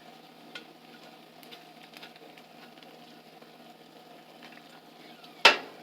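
Chicken fat rendering in a pan: a faint steady sizzle with scattered small pops as the skin and fat crisp. One sharp knock about five and a half seconds in.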